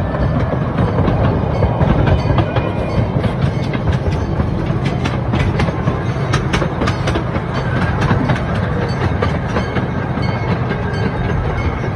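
Gas-powered Chance Rides C.P. Huntington replica train running, heard from an open-sided passenger car: a steady rumble of the wheels with quick, irregular clicking and rattling from the track and car, busiest in the middle.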